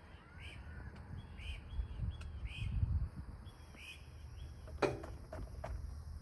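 A bird calling over and over, short arched calls roughly two a second, over a low rumble, with a sharp knock about five seconds in.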